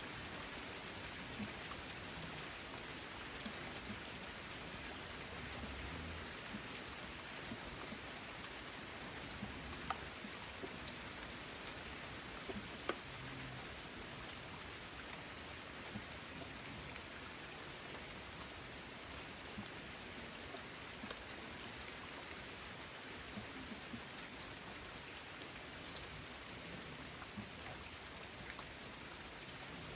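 Steady rain falling on a corrugated zinc roof: an even hiss with scattered sharper drop ticks.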